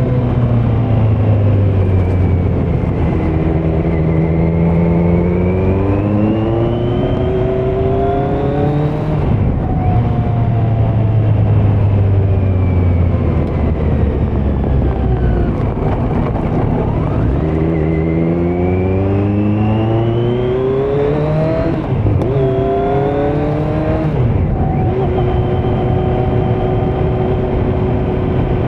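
A 2018 Kawasaki Z900's inline-four engine through a Leo Vince muffler with no dB killer, accelerating hard with rising revs and upshifts. It shifts at about nine seconds, eases off, then pulls up through two more quick upshifts and settles to a steady cruise near the end.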